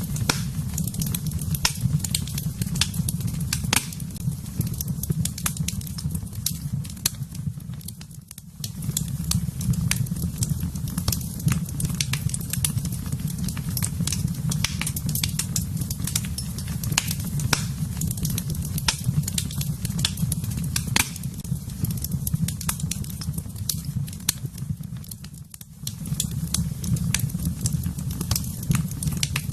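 Fire in a fireplace crackling, with many sharp pops over a steady low rumble that briefly fades twice.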